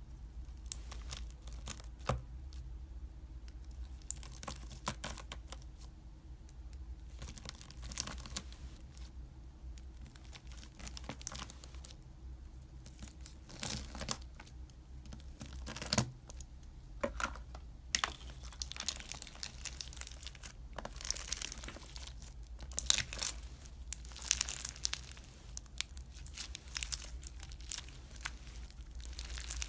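Crisp crackling, crinkling handling noise with many scattered sharp snaps and ticks, as a crumbly material is worked by hand; it grows busier in the second half.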